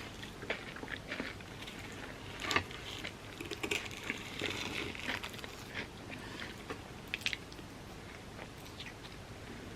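Close-miked eating: chewing with irregular crisp crunches and mouth clicks as a bowl of overnight oats topped with hardened chocolate and pistachio kataifi is eaten. The sharpest crunch comes about two and a half seconds in.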